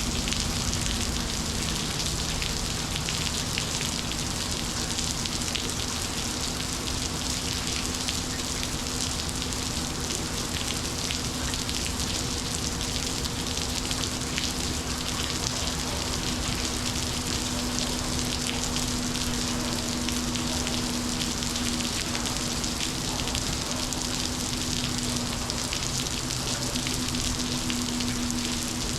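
Steady monsoon rain falling hard, thousands of drops hitting surfaces at an even level, with a steady low hum underneath.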